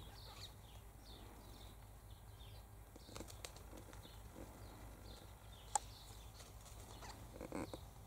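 Faint outdoor bird chirping: many short, high, downward-sliding chirps throughout, with a few sharp clicks, the loudest just before six seconds in, and a brief rustle near the end.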